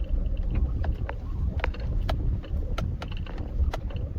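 Sierra pickup truck driving slowly over rough off-road ground: a steady low rumble of engine and tyres, with irregular knocks and rattles as it bounces along.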